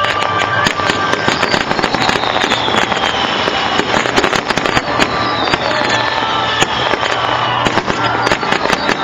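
Aerial fireworks display: dense, rapid crackling and popping bursts going off continuously.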